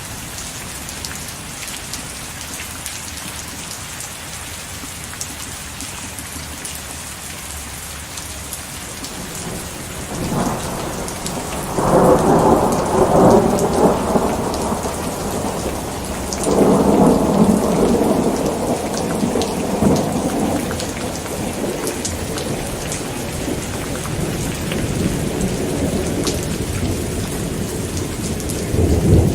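Steady rain with rolling thunder: a low rumble builds about ten seconds in, peaks twice, then fades back under the rain, and swells again near the end.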